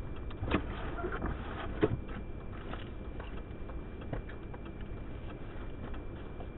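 Steady low rumble of blizzard wind around a truck, heard from inside the cab, with a few light sharp taps: one about half a second in, one near two seconds and one about four seconds in.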